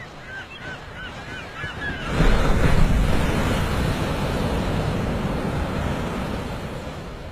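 A quick run of about eight short, high bird calls, then from about two seconds in a loud rush of wind over the microphone that slowly eases off.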